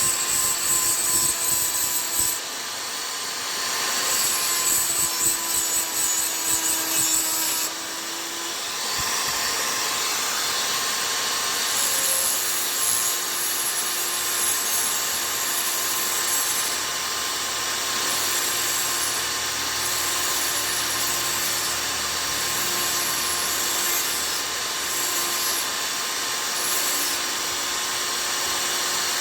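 A chisel being sharpened, its edge scraping against an abrasive in two long spells during the first eight seconds over a steady hum that runs throughout.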